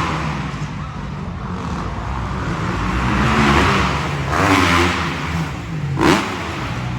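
Motocross dirt bike engines revving on the track, rising and falling in swells, with a short sharp rev near the end.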